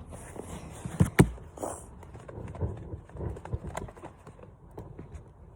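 Campfire crackling with scattered small pops, and two sharp knocks close together about a second in.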